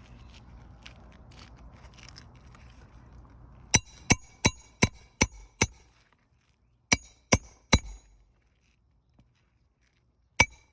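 Hammer blows on a steel roofing snake tool, driving roofing nails in under an overlying asphalt shingle. Sharp, ringing metallic strikes begin about four seconds in: six at about three a second, then three more after a short pause, then one more near the end.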